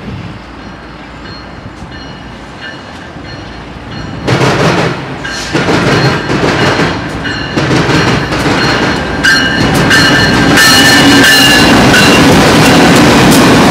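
BNSF freight train with several diesel locomotives approaching and passing close. The sound jumps louder about four seconds in, with rapid clicking of wheels over rail joints. From about ten seconds the locomotives pass alongside with a loud, steady engine drone, and steady high ringing tones run over the rumble.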